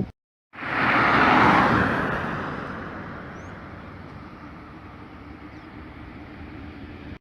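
Thunder: a loud clap that comes in sharply about half a second in and rolls off slowly over several seconds into a steady hiss.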